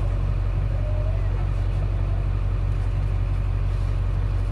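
Tour bus engine idling, a steady low drone heard from inside the bus.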